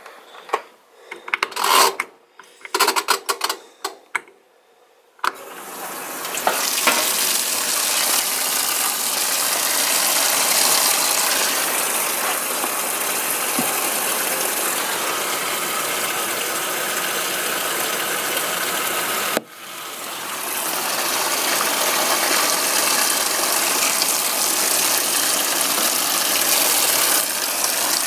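A few seconds of clicking and rattling, then water running hard from a tap. The flow stops abruptly about two-thirds of the way through and then starts again.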